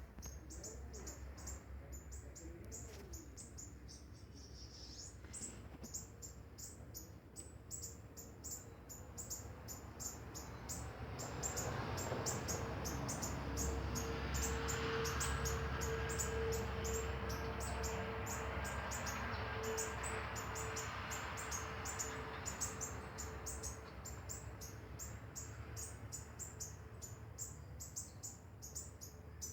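Garden birds chirping, a quick series of short high-pitched chirps repeating throughout. A rushing noise with a steady low hum swells in the middle and fades again.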